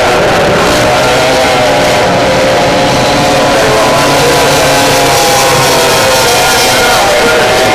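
Racing outboard powerboat engines running flat out, a loud steady high-pitched drone that wavers slightly in pitch.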